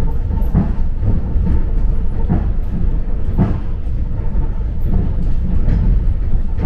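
Suburban electric train running on the rails: a steady low rumble with irregular knocks.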